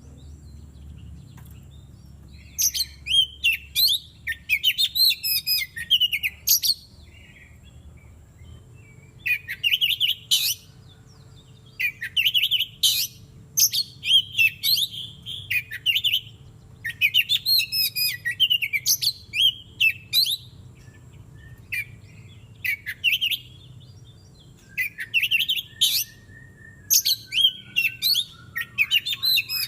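Oriental magpie-robin (kacer) singing loud, varied, fast song phrases of one to two seconds, repeated with short pauses. A lower whistle slides slowly downward near the end.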